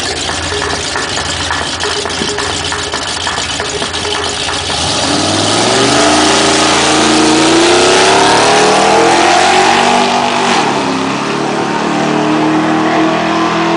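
Ford 100e drag car's engine. It runs rough and uneven for about five seconds, then gets louder and the pitch climbs steadily as the car accelerates away. The pitch drops back once about two-thirds of the way through, as at a gear change, then climbs again.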